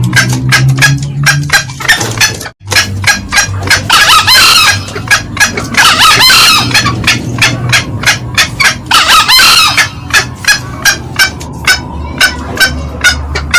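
Green junglefowl calling: a fast, steady run of short, sharp cackling notes, with three longer, louder crows about 4, 6 and 9 seconds in. The sound drops out for a moment about two and a half seconds in.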